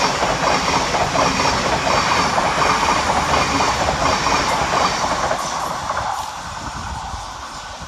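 Thameslink Class 700 electric multiple unit running past on the rails, its wheels clattering. The sound fades away from about six seconds in.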